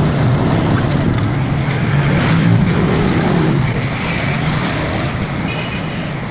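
Steady, loud motor-vehicle engine noise.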